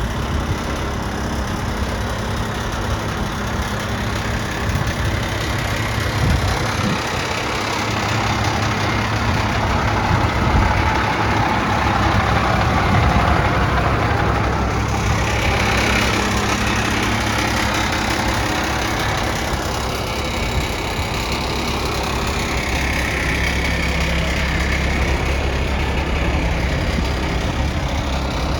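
Heavy truck's International DT466 inline-six diesel engine idling steadily, growing somewhat louder in the middle for several seconds.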